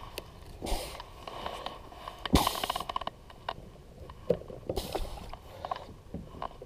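Gear being handled aboard a kayak: irregular clicks and knocks with a few short scraping rustles, including a quick run of ticks a little over two seconds in.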